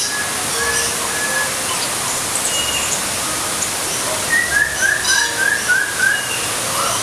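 Birds calling over a steady hiss: scattered short whistled notes, then a quick run of about seven falling notes a little past halfway.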